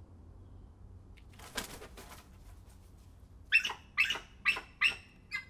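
Bald eagle calling: a series of five loud, high, chirping notes at about two a second, starting about three and a half seconds in, the last one weaker. A brief rustle comes about a second and a half in.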